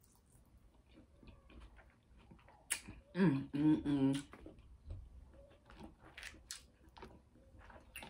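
Close-up mouth sounds of eating boiled seafood: soft chewing and lip-smacking clicks. About three seconds in there is a sharp click, then a closed-mouth hum lasting about a second, the loudest sound here.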